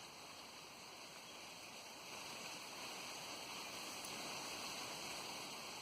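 Steady rushing of wind outdoors, growing a little louder about two seconds in.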